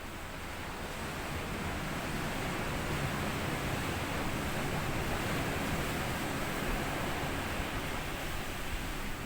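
Sea waves washing onto a sandy beach: a wash of surf that swells over the first few seconds and then eases back.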